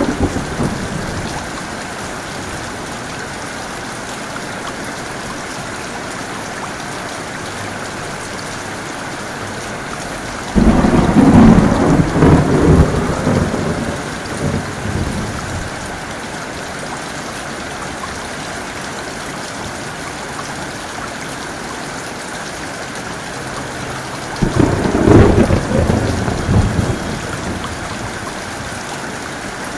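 Heavy rain falling steadily, with two loud claps of thunder: one about ten seconds in that rumbles on for several seconds, and another shorter one near the end.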